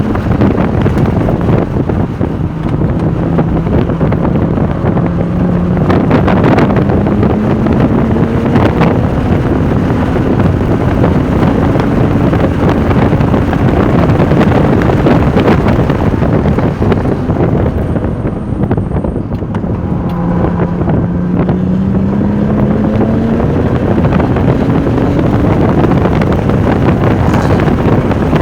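Porsche 996 Turbo's twin-turbo flat-six pulling hard around a race track under heavy wind rush. The engine note climbs under acceleration, drops away briefly about two-thirds of the way through, then climbs again.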